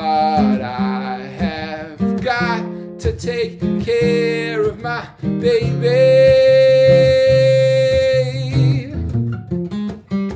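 Martin GPCPA4 acoustic guitar strummed and picked through a looper pedal, with layered guitar parts. A voice sings wordless, wavering notes over it and holds one long note through the middle of the stretch.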